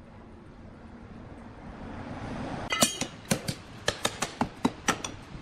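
A swelling low rumble, then from about three seconds in a quick, irregular run of sharp metallic clinks and knocks that ring briefly.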